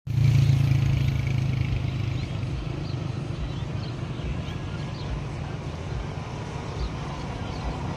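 A motor vehicle's engine running, a steady low rumble that is loudest in the first second and then settles, with a few faint high chirps.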